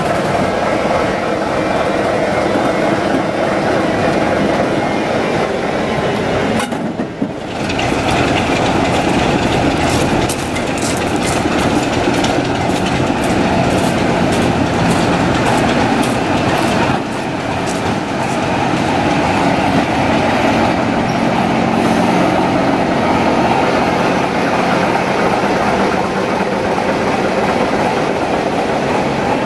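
Diesel locomotive running with a steady drone. Its wheels click regularly over rail joints for several seconds in the middle. The sound changes abruptly twice, about seven and seventeen seconds in.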